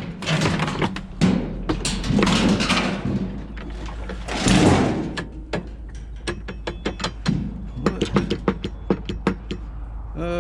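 Metal scrap being worked by hand: a few loud, rasping scrapes, then from about halfway a quick, irregular run of sharp metallic clicks and taps, some of them ringing.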